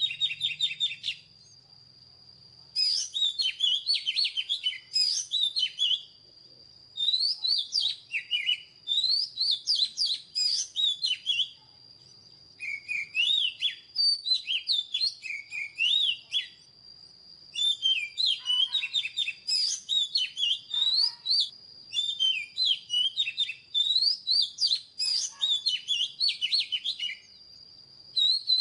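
Oriental magpie-robin singing: bursts of rapid, varied whistled and chirping phrases a few seconds long, separated by short pauses.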